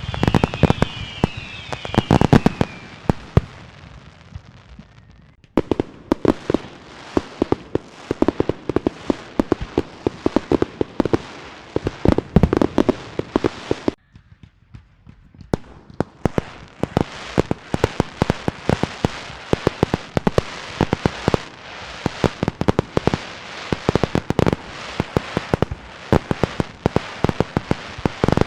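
Fireworks and firecrackers going off in dense rapid cracks and bangs. In the first few seconds, whistling fireworks sound repeated falling whistles. The barrage drops off abruptly twice, about five seconds in and again near the middle, then starts again.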